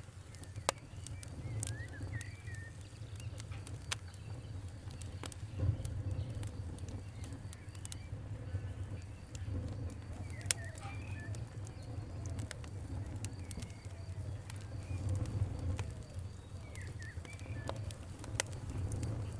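Wood fire crackling: irregular sharp pops over a low steady rumble. Birds chirp faintly now and then in the background.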